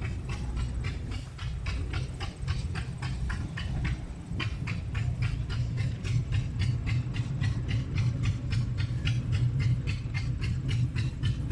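A machine running with a rapid, even beat of sharp puffs or clicks, about five a second, over a steady low rumble.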